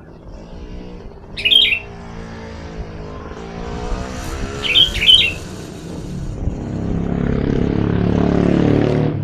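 Sooty-headed bulbul giving short, loud chirping calls, once about a second and a half in and twice around the middle. Under them a passing motor vehicle's engine hums and grows louder toward the end.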